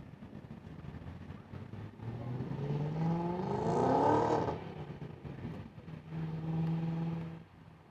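Motor vehicle engine accelerating, its pitch rising for about two seconds, then running at a steady pitch for a second and a half near the end.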